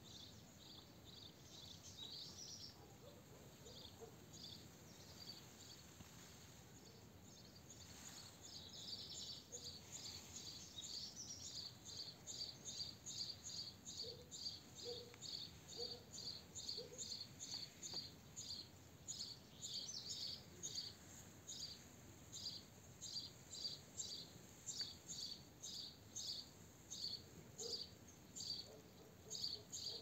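A small bird chirping over and over, short high chirps at about two a second, getting louder about a third of the way in, with a few warbled calls between.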